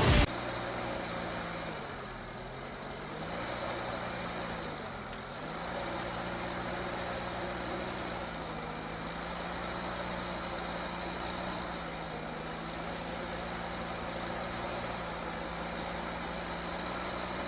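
Heavy vehicle engine running, its pitch dipping and recovering twice in the first five seconds, then holding steady.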